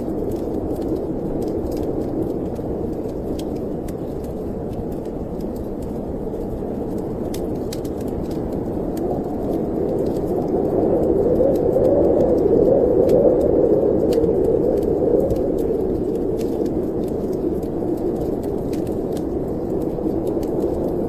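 Snowstorm wind blowing steadily, swelling into a stronger gust about halfway through and easing off again, with the light crackle of a wood fire ticking over it.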